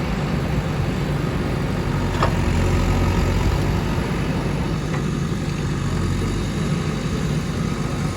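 A vehicle engine running steadily with a low rumble, with a short click about two seconds in.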